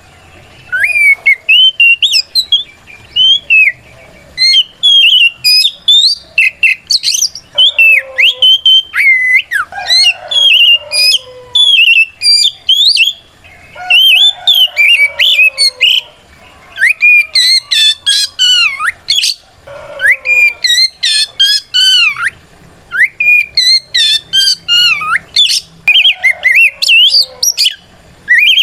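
Oriental magpie-robin singing its loud, full challenge song: rapid strings of varied whistles and swooping notes, in bursts of one to three seconds with short pauses between. This is a song that calls out a rival bird.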